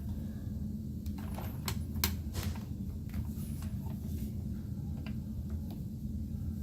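A handful of short plastic clicks and light knocks, scattered and irregular, as the brush roll and its ends are fitted into the head of a Sanitaire SC886 upright vacuum, over a steady low hum.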